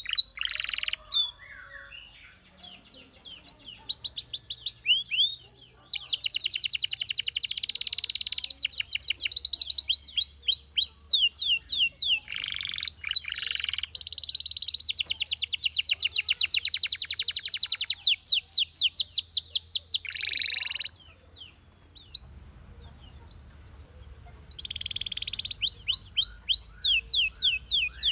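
Belgian canary singing: long phrases of fast, high trills and rapidly repeated sweeping notes, with short pauses between phrases.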